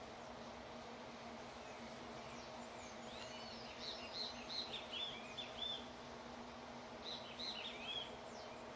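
A bird chirping outdoors-faint: two bursts of quick, repeated high rising-and-falling chirps, the first about two and a half seconds in and the second near the end, over a steady low hum.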